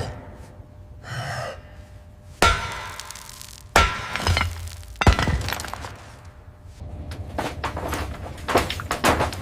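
Glass breaking and metal parts knocking: three hard strikes a little over a second apart, with clinks of glass, then a quicker run of rattling clatter near the end.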